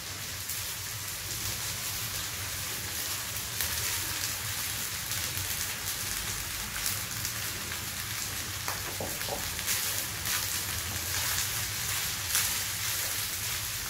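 Vegetables and cooked rice sizzling in a wok over a high flame, a steady hiss, with a few light clicks of the spatula as the rice is stirred in.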